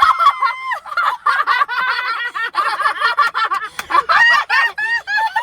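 Shrieking, high-pitched hysterical laughter in quick hooting bursts, about three to four a second, after an opening held squeal.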